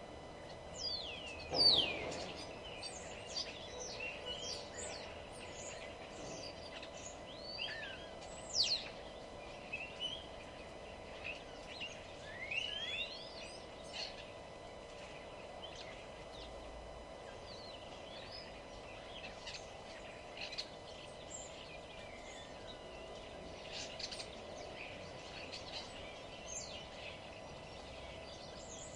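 Several songbirds chirping and whistling, a busy mix of short notes and quick rising and falling whistles, the loudest call about two seconds in. A faint steady hum runs underneath.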